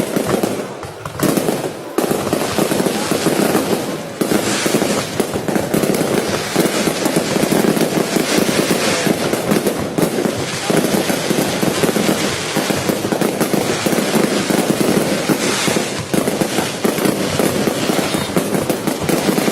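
Fireworks being set off in a rapid, near-continuous barrage of bangs and crackles, with a brief lull about one to two seconds in.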